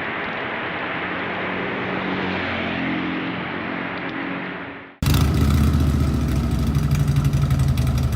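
Wind and road rush from riding, with the engine faint underneath, fading out. About five seconds in, it cuts to the Royal Enfield Classic 350's single-cylinder engine running close up, louder, with a fast, even beat.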